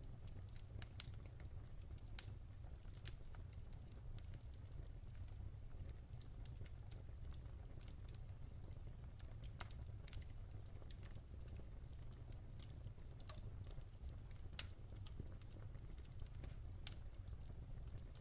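Campfire crackling: irregular small pops and snaps of burning wood, with a few sharper snaps standing out, over a low steady rumble.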